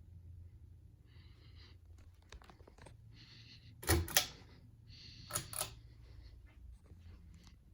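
Ceiling fan pull-chain switch being worked: short stretches of chain rattling, with sharp clicks. Two loud double clicks come about four and five and a half seconds in.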